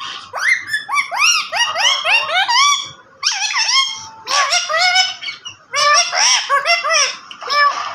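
A parrot calling in rapid runs of short, squeaky notes that rise and fall in pitch, several a second. The runs break off briefly about three seconds in and again near six seconds.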